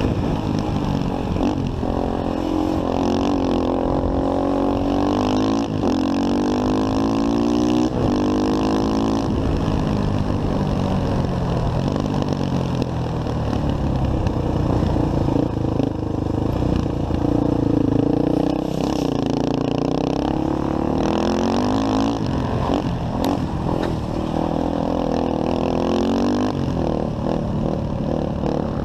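Motorcycle engine under way, its pitch rising as it accelerates and dropping again several times as it shifts and slows, over steady wind and road noise.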